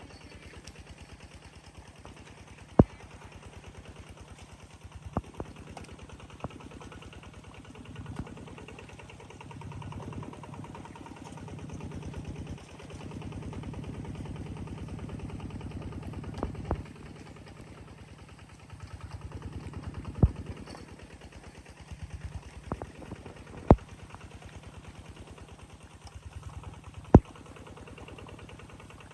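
An engine running steadily at idle with a rapid, even low pulse, swelling slightly at times. A loud sharp click or knock cuts in every few seconds, about six times.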